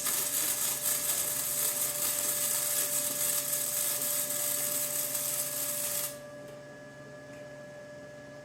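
Workshop tool running with a steady hiss for about six seconds, then stopping suddenly.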